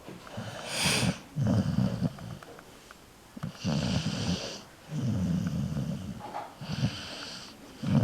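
Staffordshire bull terrier snoring in its sleep: low, rattling snores about every second and a half, several with a breathy hiss.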